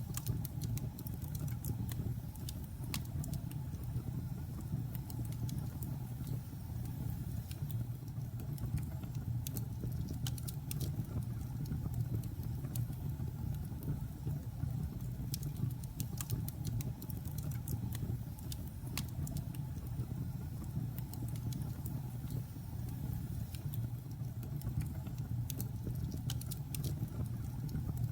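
Wood logs burning in a fireplace: a steady low rumble of the fire with irregular sharp crackles and pops, some coming in quick clusters.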